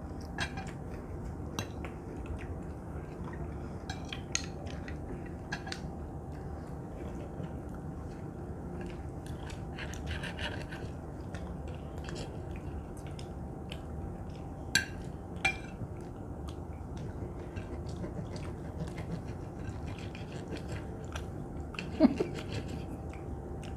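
People chewing steak and vegetables, with scattered clicks of knives and forks against plates and a brief scrape about ten seconds in.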